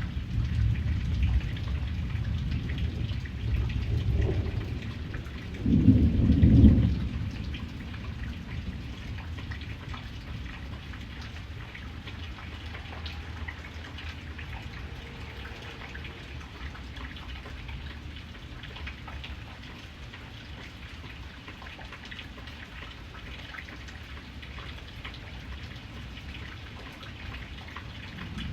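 Steady rain pattering, with low thunder rumbling over the first few seconds and building to a loud peal about six seconds in, then dying away to rain alone.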